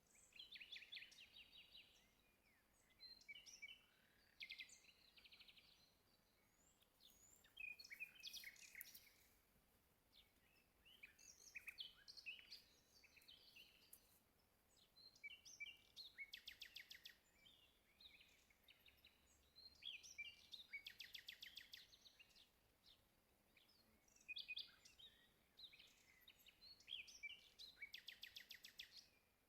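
Songbirds singing, faint, in repeated phrases of quick chirps and rapid trills, a new phrase every three to four seconds.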